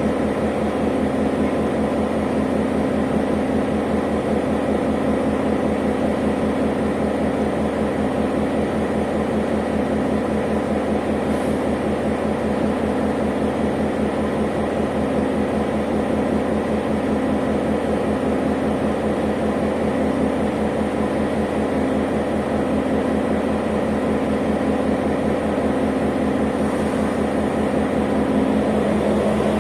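Diesel-electric locomotive engine running steadily at idle, a constant low throbbing hum with a fast, even firing pulse.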